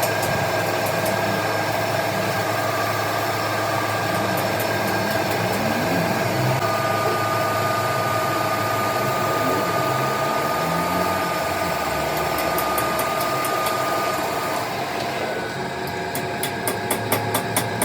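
Machine-shop machinery running steadily with a held whine. Near the end comes a quick run of sharp ticks, about five a second.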